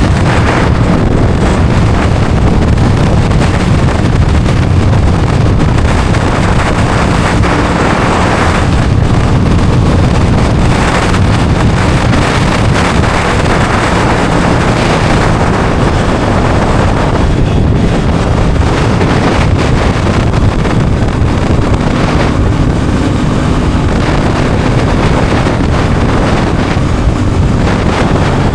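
Aprilia Tuono 660 Factory's parallel-twin engine running under way, buried under heavy wind rushing over the microphone, with the engine note rising and falling at times.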